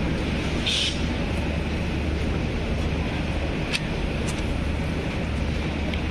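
Steady low rumble of a passenger train, with a short hiss just under a second in and a faint click near the middle.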